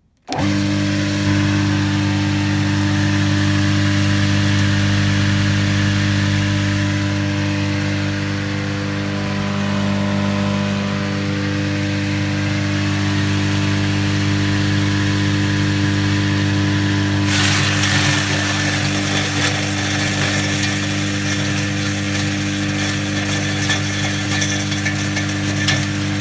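Homemade grass chopper built from a washing machine switched on: its electric motor starts abruptly and runs with a steady hum. About 17 seconds in, a dense rattling, crackling noise joins the hum, the sound of material being fed into the blades and chopped.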